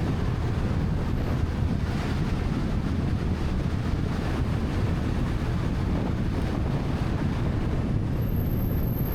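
Wind buffeting the microphone on a moving motorcycle: a steady low rumble with the vehicle's running noise mixed in. A thin, high whistle comes in near the end.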